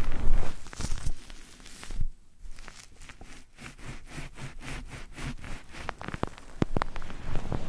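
ASMR trigger sounds made right at the microphone: scattered clicks and rustling, then a run of rhythmic scratching strokes about four a second, then more clicks.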